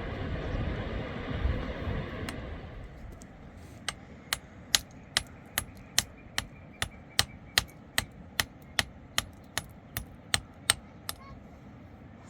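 A loud rushing noise fades away over the first three seconds. Then a hammer strikes about eighteen times at a steady pace of roughly two and a half blows a second, stopping shortly before the end.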